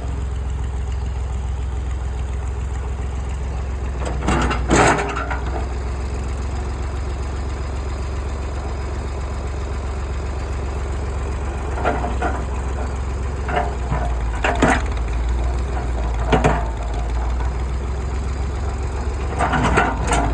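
Old farm tractor engine running with a steady low drone while tree roots and wood crack and splinter under its pull several times, the loudest snapping about four to five seconds in.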